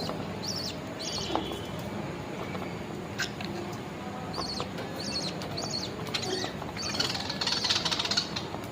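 Budgies calling: short high chirps, one at a time, then a rapid buzzy chatter about seven seconds in that lasts about a second.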